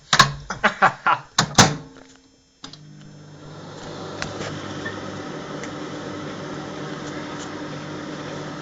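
Microwave oven door shut and controls clicked, a quick run of sharp clicks and knocks, then after a short pause the microwave starts running with a steady low hum about two and a half seconds in.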